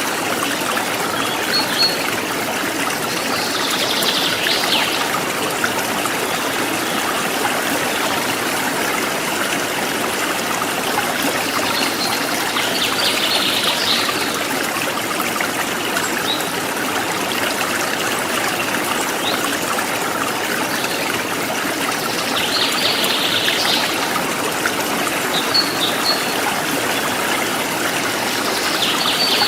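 River water flowing steadily with a constant trickling rush. A short higher-pitched rasp rises over it about every nine seconds.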